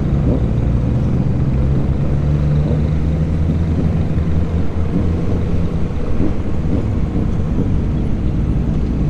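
Motorcycle engine running at a steady speed, a constant low hum with road noise.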